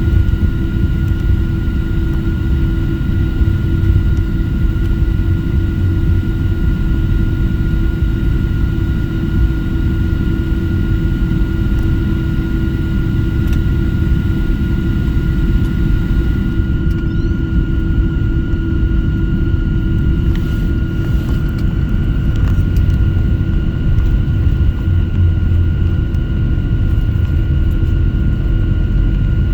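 Passenger airplane's engines running steadily while taxiing, heard from inside the cabin: a constant low rumble with several steady whining tones above it.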